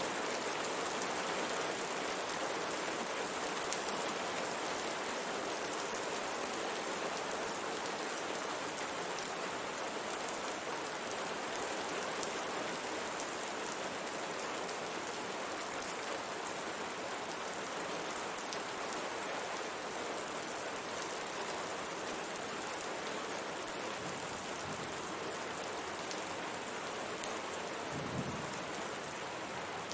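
Steady rain falling on a window pane, an even patter of drops with occasional sharper ticks of single drops.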